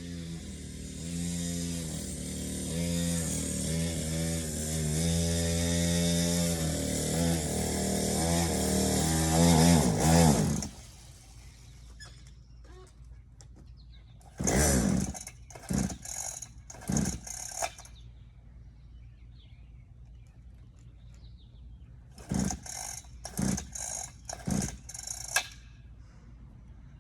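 Dirt bike engine running and revving, its pitch climbing again and again, then cutting out suddenly about ten seconds in as it runs out of gas. Later come two groups of short bursts as the engine is kicked over without catching.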